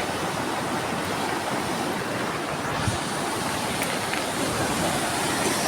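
Steady rush of a rain-swollen river in flood, its water churning.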